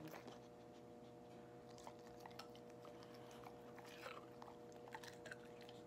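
Near silence: faint chewing with small clicks over a steady low hum.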